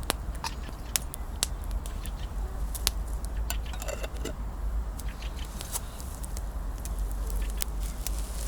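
Campfire crackling: wood burning with irregular sharp pops and snaps, over a steady low rumble.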